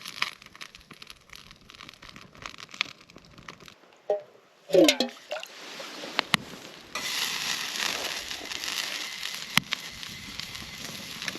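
Rain pattering in scattered ticks, turning into a steady hiss of heavier rain about seven seconds in, with a few sharp clicks. A short tone falling in pitch sounds about five seconds in.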